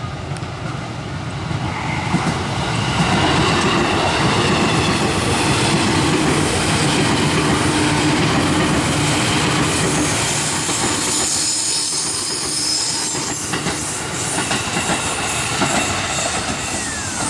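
KRL Commuter Line electric train passing close by, wheels clattering over rail joints with some wheel squeal as it rounds a curve, the sound building over the first few seconds and easing off after about ten.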